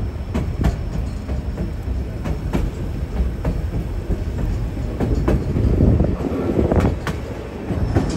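Narrow-gauge passenger train rolling along the track: a steady low rumble with sharp wheel clicks over the rail joints, about one a second and unevenly spaced.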